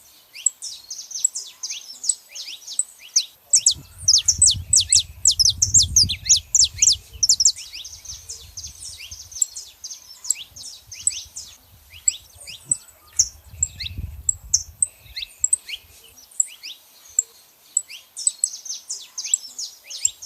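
Saffron finches chirping: rapid strings of short, high chirps, densest a few seconds in and again near the end. A faint low rumble sits underneath twice.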